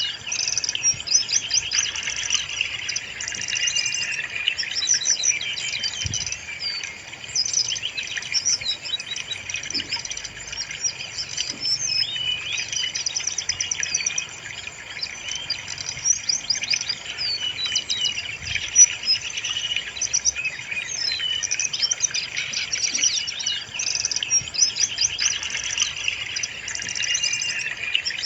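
Brown-chested jungle flycatcher singing without a break, a dense run of quick high chirps and trills. It is played as a lure recording to get a kept bird to sing.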